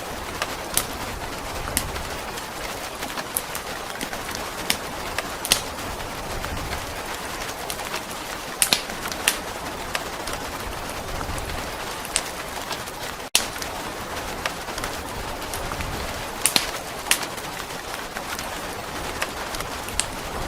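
Steady rain hiss with sharp fireplace crackles and pops scattered irregularly through it, over soft low rumbles that swell and fade. The sound cuts out for an instant about thirteen seconds in.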